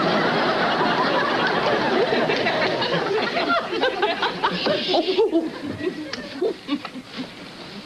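Audience laughing at a sitcom punchline. The laughter dies down about five seconds in, leaving a few scattered chuckles.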